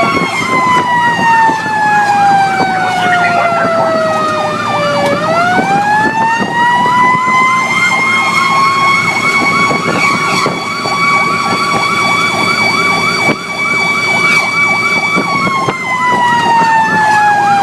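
Fire engine sirens sounding loud. One wailing tone winds slowly down, climbs quickly back up and holds, then winds down again near the end. Under it a second siren yelps rapidly and steadily.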